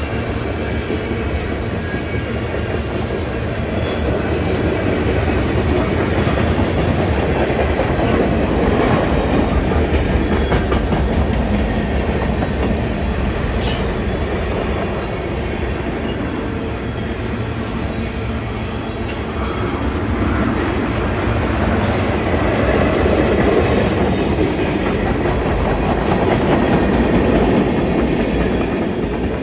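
CN freight train's tank cars and covered hopper rolling past, steel wheels running on the rails in a steady, continuous noise that swells louder twice, with one brief sharp clank partway through.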